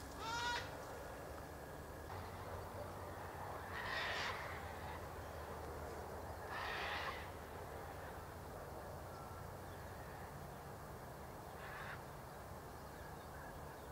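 A bird calling: a short pitched call at the start, then two harsh, rasping calls a few seconds apart, and a fainter one near the end, over a steady low background hiss.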